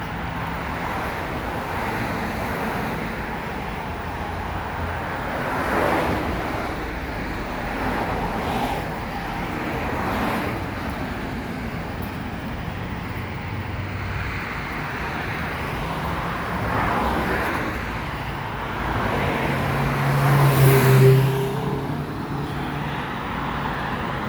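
Road traffic on a city boulevard: a steady wash of tyre and engine noise with several cars passing one after another. The loudest pass comes near the end, a vehicle with a low engine hum.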